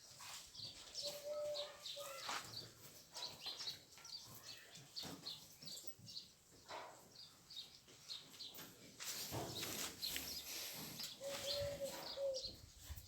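Birds chirping repeatedly in short high notes, with scattered knocks and two short steady tones, one about a second in and one near the end.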